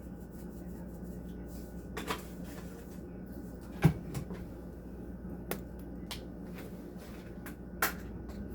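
Kitchen handling sounds: a handful of separate sharp knocks and clicks, about seven in all, the loudest about four seconds in, over a steady low hum.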